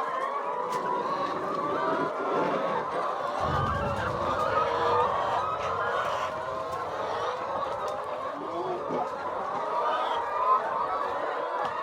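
A flock of chickens clucking and calling, many voices overlapping without a break.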